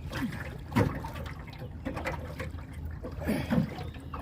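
Water sloshing and splashing around a person wading beside a small boat and pulling it along, with louder splashes about a second in and again near the end.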